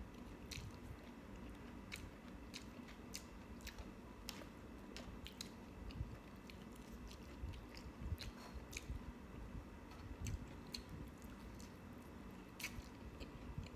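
Close-miked chewing of a mouthful of instant noodles, rice and kimchi, with many small wet clicks and smacks of the mouth.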